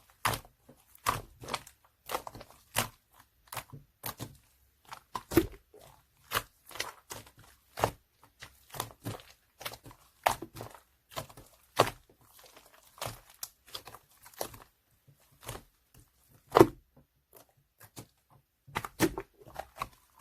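White slime being squeezed and pressed by hand, giving a run of irregular short pops and crackles, a few a second, with one louder pop about two-thirds of the way through.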